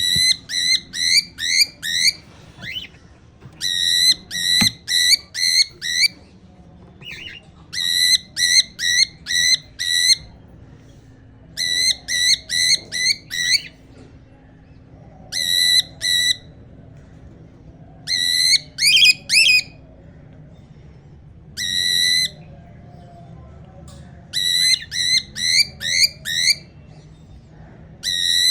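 Cockatiel calling: short, rising whistled notes in runs of five or six, about three a second, with a pause of a second or two between runs.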